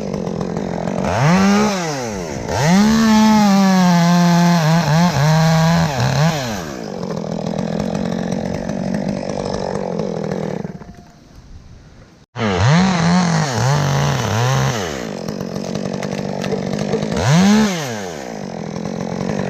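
Chainsaw revving up and down as it cuts through a maple limb during tree removal. It drops back about ten seconds in, cuts off abruptly, then revs up again and keeps cutting.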